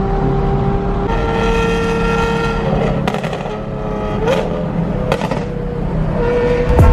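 Car engine running at a steady pitch that shifts now and then, with a few short sharp cracks about halfway through.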